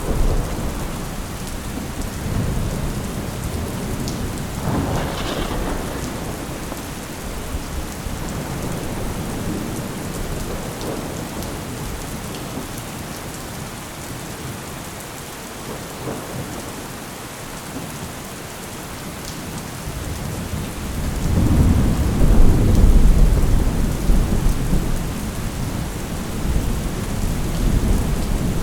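Steady rain of a thunderstorm with rolling thunder: a brief sharper peal about five seconds in, a quieter spell in the middle, then the loudest deep rumble about three quarters of the way through.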